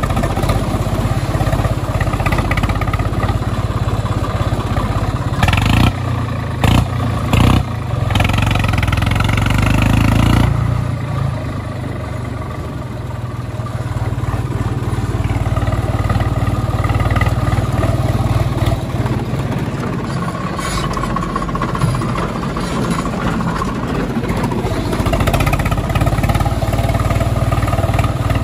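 Tractor engine running steadily. It has a few sharp knocks about six to eight seconds in, then grows louder until about ten seconds in and drops back.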